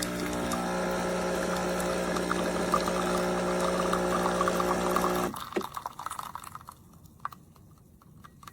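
Wacaco Pixapresso portable espresso machine's pump running as espresso pours from the pod: a steady hum with liquid splashing into the cup. It cuts off suddenly about five seconds in, followed by a few faint clicks.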